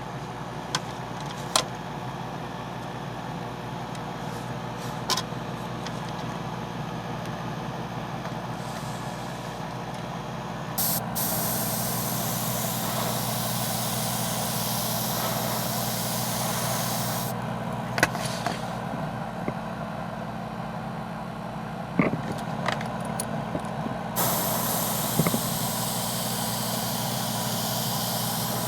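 Hobby airbrush compressor humming steadily while the airbrush sprays hull paint, hissing in two long spells: one about a third of the way in, one near the end. A few sharp clicks come in between.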